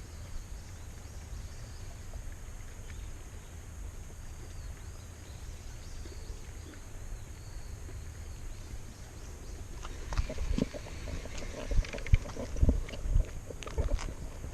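Steady low outdoor rumble, then from about ten seconds in a run of irregular knocks, clicks and low thumps.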